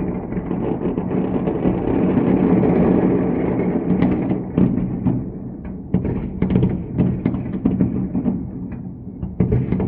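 A run of sharp explosive booms at irregular spacing, several a second, starting about four seconds in over a continuous low rumble that swells over the first few seconds.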